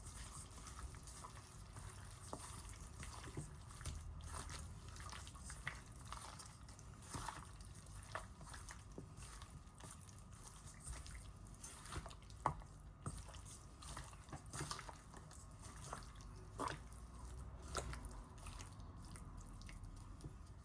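Raw chicken wings being handled and mixed in a wet marinade: irregular soft squelches and small clicks.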